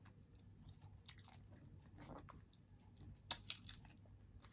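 A person chewing food close to the microphone: faint mouth sounds with a quick run of crisp crunches about three seconds in.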